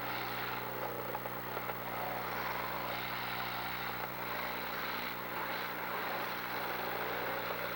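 Demolition derby cars' engines running, with faint rising and falling pitch as they rev, under a steady din.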